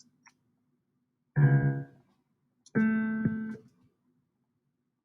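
Two single notes from a software grand piano, played back as MIDI notes are clicked and dragged in an editor: a lower note about a second and a half in, then a higher one about a second later, each short.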